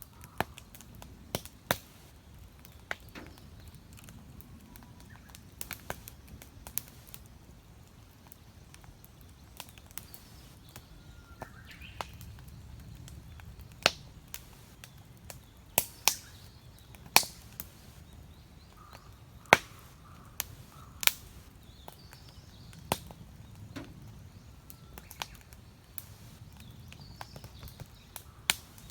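Wood campfire crackling, with sharp irregular pops of burning firewood over a low steady rumble of the flames. Small birds chirp faintly now and then.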